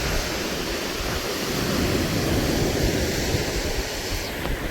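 Steady wind noise on the microphone: a constant rushing hiss with an uneven low rumble underneath.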